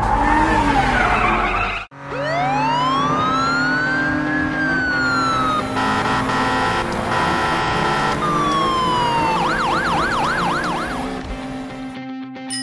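Cartoon ambulance siren sound effect starting about two seconds in: a long wail sweeping up and down in pitch, then a fast yelp warbling several times a second near the end.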